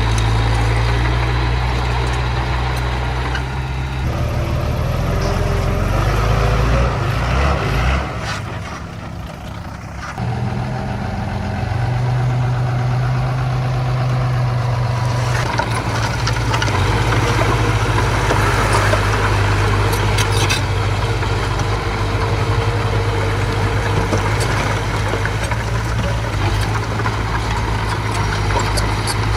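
Diesel engine of earthmoving machinery running steadily. It shifts pitch and eases off briefly about a third of the way in, then picks back up and runs on.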